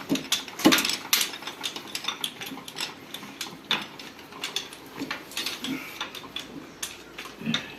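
Irregular metallic clicks and clinks of hand tools and metal parts being handled during tractor gearbox repair work, with a few louder knocks.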